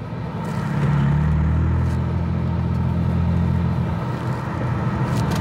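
BMW M3's engine running as the car is driven, heard from inside the cabin: a steady low hum that builds over the first second and eases off slightly about four seconds in.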